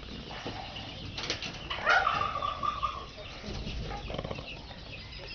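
Penned poultry: a brief flutter of wings about a second in, then one bird's call lasting about a second.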